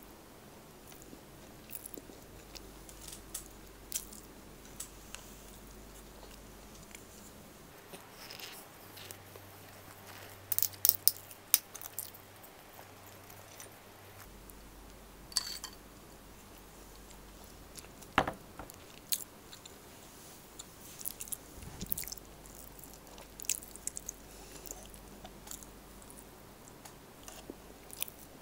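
Close-miked chewing and wet mouth sounds of someone eating rice and beef caldereta by hand, with scattered sharp smacks and clicks. The loudest run comes about ten to twelve seconds in.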